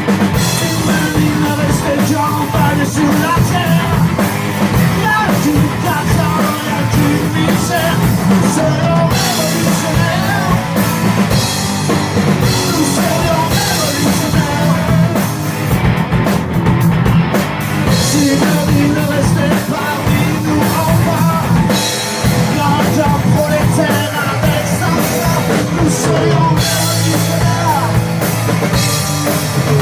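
Live rock band playing loud, with drum kit and singing, in a punk-rock style.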